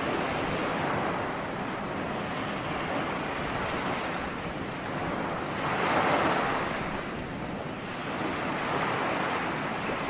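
Ocean waves breaking and washing on a shore, a continuous surf rush that swells and ebbs, with one wave cresting loudest about six seconds in.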